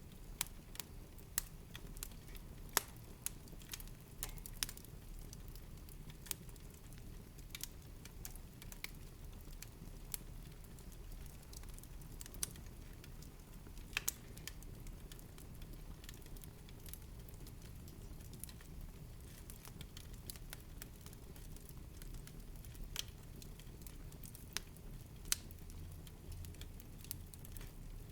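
Wood fire in a fireplace crackling: irregular sharp pops and snaps, a few louder than the rest, over a low steady rumble of the flames.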